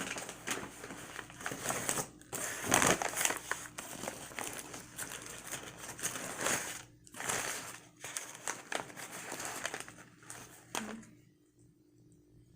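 Wrapper of a fast-food chicken sandwich crinkling and rustling in irregular bursts as it is handled and opened, stopping about eleven seconds in.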